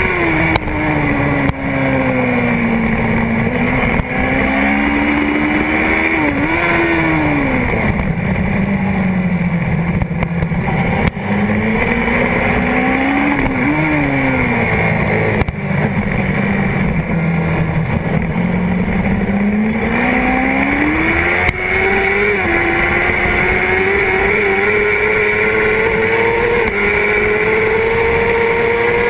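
Honda CBR600RR's inline-four engine heard from a tank-mounted camera while racing: the revs fall with two short throttle blips, stay low for several seconds, then climb steadily through the last third as the bike accelerates. A few brief knocks come through from the camera mount on the bumpy track.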